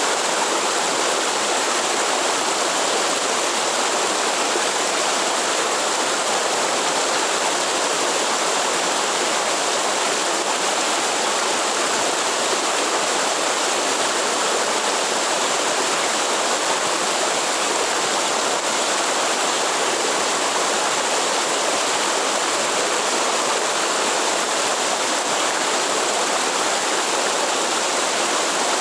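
Waterfall in the Atlantic Forest, water rushing and splashing in a steady, even roar.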